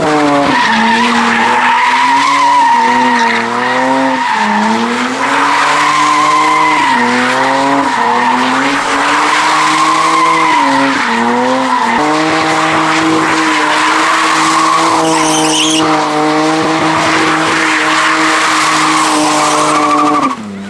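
A car drifting, its engine held at high revs that waver up and down, with tyres squealing continuously. The revs steady out about halfway through and drop away just before the end.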